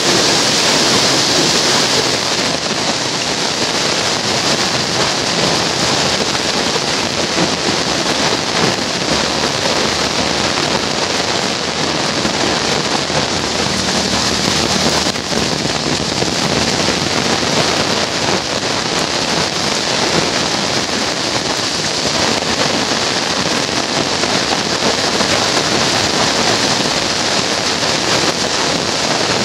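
Heavy rain pouring down on a paved street, parked cars and garden foliage: a loud, steady hiss of rainfall.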